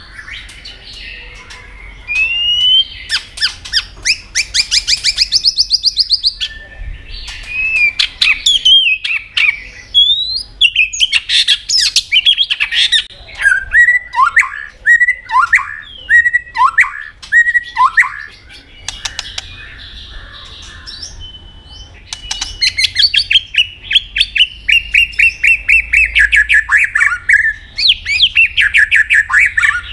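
White-rumped shama singing a varied song: fast rattling trills, then a run of loud whistled notes that each slur sharply downward, and near the end a long rapid trill that falls slowly in pitch.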